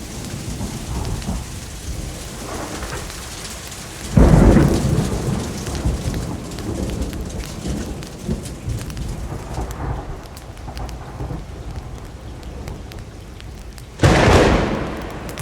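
Steady rainfall, with two sudden claps of thunder, about four seconds in and near the end, each rumbling low and fading over a couple of seconds.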